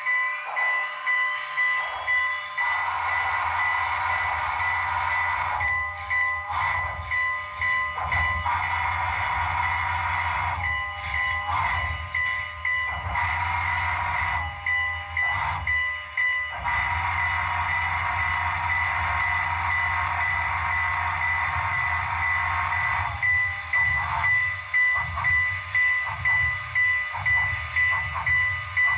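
Sound decoder of an HO-scale Southern Pacific AC-5 cab-forward steam locomotive model running past: rhythmic steam-exhaust chuffing over a deep bass rumble, with the steam whistle sounding several blasts of different lengths. The chuffs grow sharper and louder near the end.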